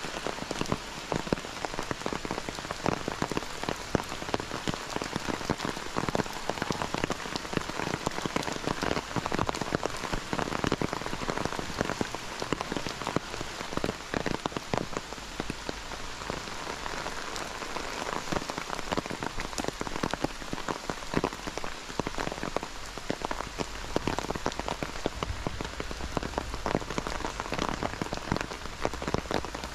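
Steady rain falling, with a dense spray of separate drop hits close by.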